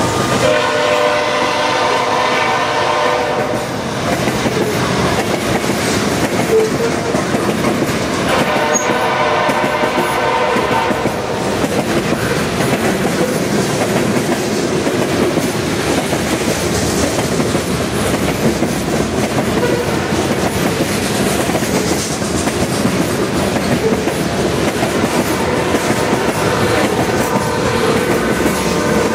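Freight train passing close by: covered hopper cars rolling past with wheels clacking over the rail joints. The lead locomotive's horn sounds a chord three times, from the start for about three seconds, again about eight seconds in, and near the end.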